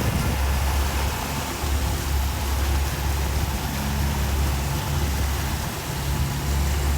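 Motorboat engine running, a steady low rumble under a wash of noise.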